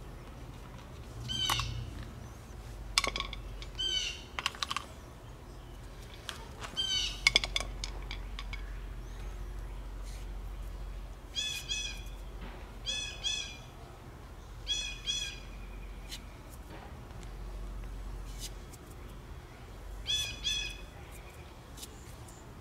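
A bird chirping repeatedly in short clusters of quick notes. A few sharp plastic clicks and snaps, the loudest about 3 and 7 seconds in, as the cell caps of a lead-acid battery are pried off with a screwdriver.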